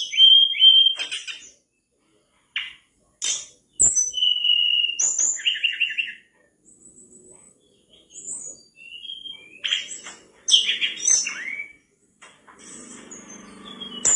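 Mangrove blue flycatcher (tledekan bakau) singing vigorously: a lively, varied run of high whistled phrases and quick chirps, some gliding in pitch, broken by short pauses.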